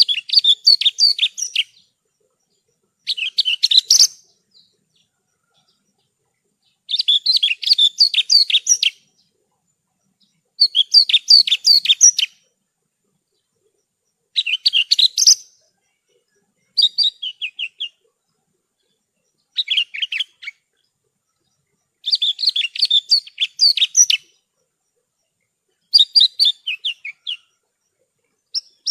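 Javan bush lark (branjangan) singing: about ten phrases of rapid, high chattering notes, each lasting one to two seconds, with short silent pauses between them.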